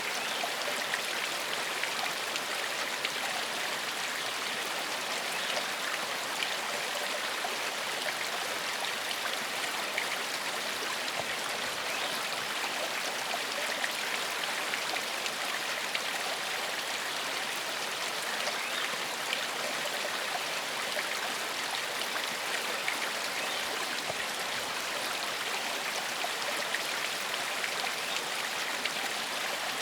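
Gentle forest stream flowing over rocks: a steady, even rush of water with fine splashing and trickling.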